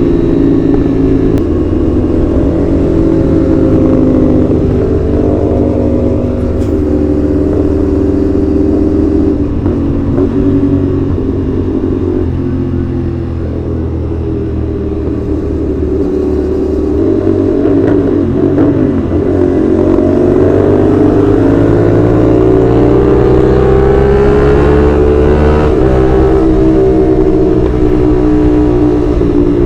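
CFMoto 450SR's parallel-twin engine with its 270-degree crank, ridden under way. About halfway through the rider eases off and the pitch drops. It then climbs steadily as the bike accelerates, with a sudden drop in pitch near the end at a gear change.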